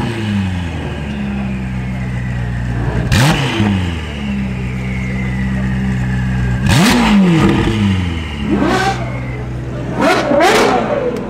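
Ferrari 488 N-Largo's twin-turbo V8 idling and revved sharply five times, each rev falling straight back to a steady idle.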